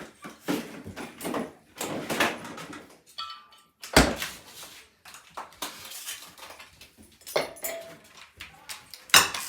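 Clatter and rustle of kitchenware being handled and set down on a table, with a sharp knock about four seconds in and another near the end.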